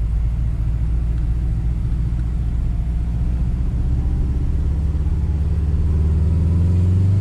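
Turbocharged Subaru's engine running while driving, heard from inside the cabin: a steady low drone that grows a little louder about five seconds in.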